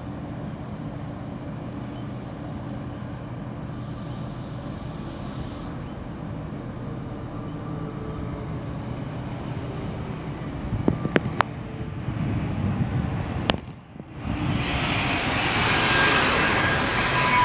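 Class 68 diesel-electric locomotive standing in the platform with its engine idling low and steady, quiet enough to be hard to hear. Two sharp clicks come about eleven and thirteen and a half seconds in. After a brief dip, a louder rushing train noise builds toward the end.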